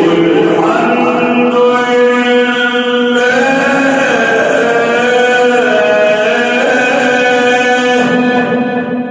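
A male Quran reciter chanting in tajweed style, holding one long melodic phrase that turns slowly up and down in pitch and fades near the end.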